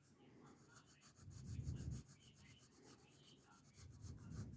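Pencil rubbing back and forth on paper in quick, rapid shading strokes, with duller low rubbing sounds twice.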